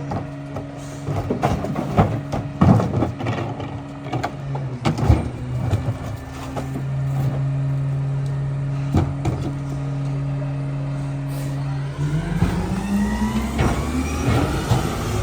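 Mack MRU rear-loader garbage truck's diesel engine running steadily, with knocks and clatter of bulk trash during the first few seconds. About twelve seconds in, the engine revs up, rising in pitch.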